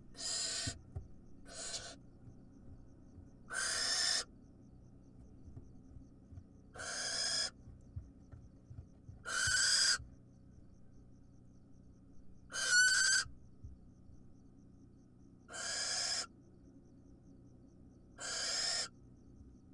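Barn owl nestling's hissing begging calls: harsh, rasping hisses of about half a second each, repeated every two to three seconds. One call near the middle carries a brief rising squeal.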